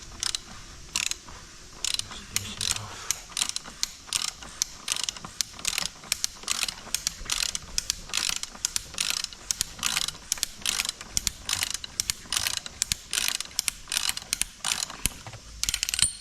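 A 1/2-inch ratchet with a 27 mm socket clicking in rapid repeated strokes, about three clicks a second, as it unscrews the oil filter housing cap on a BMW N57 3.0 diesel engine.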